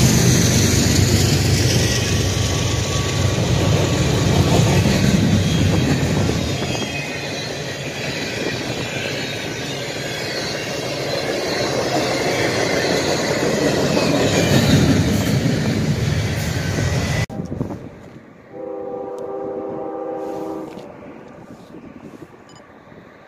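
Norfolk Southern double-stack intermodal freight train passing close by: a loud, steady rumble of wheels on rail that eases and swells as the container cars go by, then cuts off suddenly. After that a distant locomotive horn sounds once, a chord held for about two seconds.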